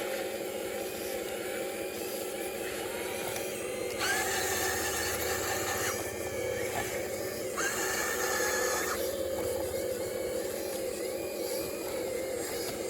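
Radio-controlled model Cat excavator running: a steady electric hum, with two louder whirring bursts from its hydraulic pump as the arm works, one about four seconds in and one about two seconds later.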